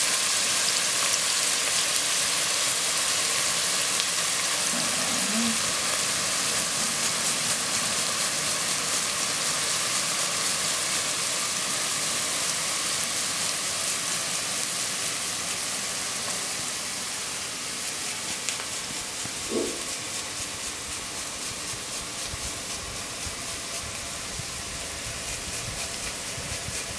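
Diced onions and celery sizzling steadily in melted butter in a pot, easing off a little in the second half.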